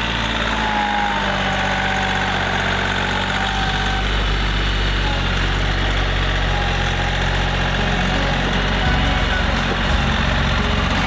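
Tractor engine running steadily while plowing snow, with a change in its low hum near the end.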